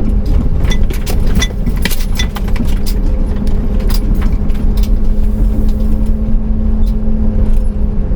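Inside a moving camper van: a steady low road rumble with a constant hum, and quick clinks and rattles of loose things in the cabin, thickest in the first few seconds.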